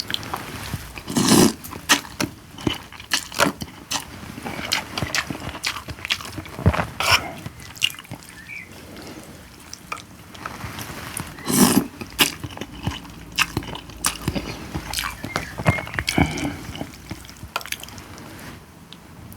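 Close-up eating sounds: chewing and wet mouth noises, with many irregular clicks and knocks, the loudest about a second and a half in and again near the middle.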